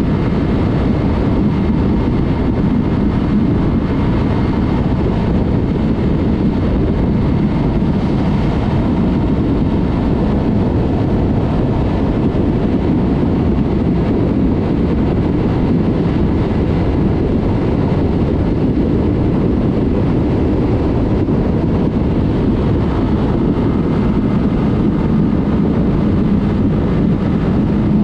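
Yamaha MT-03 motorcycle with a Mivv exhaust riding at a steady pace, its engine note mixed with heavy wind rush on the microphone; the sound stays steady with no revving or gear changes.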